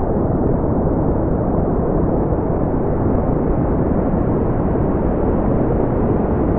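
Steady brown noise: a constant, even, deep rumbling hiss with its energy in the low end and nothing above about 4 kHz, unchanging throughout.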